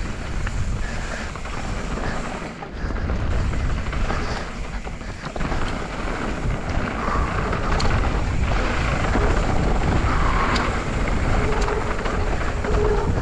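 Wind buffeting the camera microphone and knobby tyres running over packed dirt on a fast mountain-bike descent, with the bike rattling over bumps. A couple of brief brake squeals near the end, from brakes running warm.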